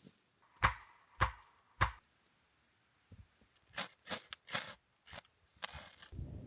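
Three evenly spaced knocks about half a second apart, then, after a short pause, a quick run of sharp cracks and rustles.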